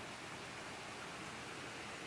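Steady rain falling: an even hiss with no separate drops standing out.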